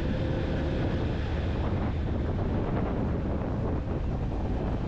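Steady wind rushing over the microphone of a Yamaha FZ-X motorcycle riding at speed, with the low rumble of the bike and road underneath.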